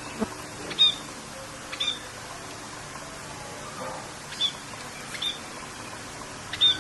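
Songbird giving short, sharp chirps, about five of them spaced a second or so apart, over a steady hiss of rain.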